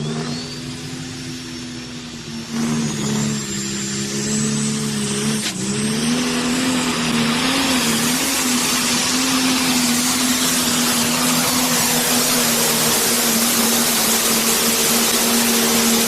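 Pro Stock pulling tractor's single-turbocharged 680-cubic-inch diesel engine under full load during a pull, with a high turbo whistle rising at the start. The engine note steps up twice in the first few seconds, then holds loud and steady before cutting off at the very end as the pull finishes.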